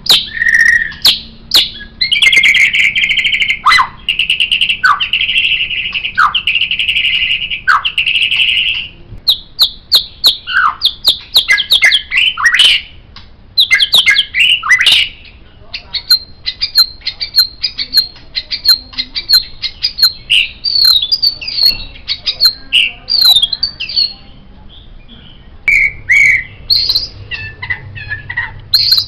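White-rumped shama (murai batu) singing a long, varied song. It moves from buzzy rattling phrases cut by sharp falling whistles into fast runs of high whistled notes, with short pauses between the sections.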